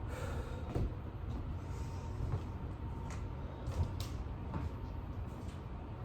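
Soft thuds and knocks of a person doing burpees on a floor, hands and feet landing every second or so, over a steady low rumble.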